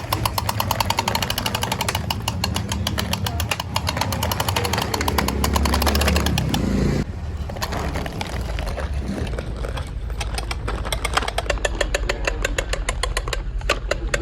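Tractor diesel engine running with a rapid, even chugging. A deeper rumble swells and then cuts off abruptly about seven seconds in, after which the chugging goes on.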